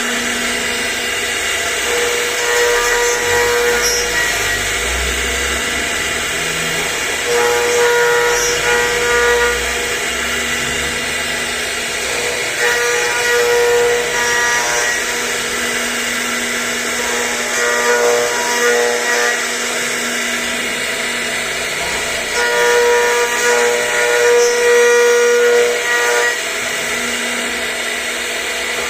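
CNC router spindle whining steadily as it carves, growing louder in stretches about every five seconds as the cutter makes its passes.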